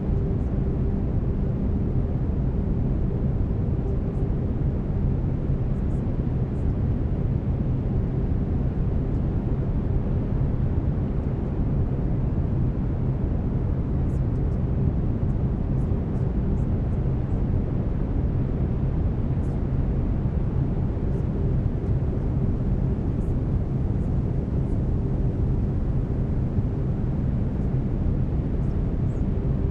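Steady brown noise, an even deep rumbling hiss heaviest in the low end, with faint steady binaural-beat tones held underneath it.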